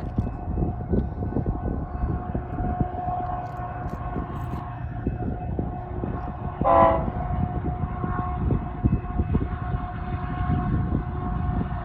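Train rolling along, its wheels giving a steady low rumble and rattle, with one short blast of the train horn about seven seconds in.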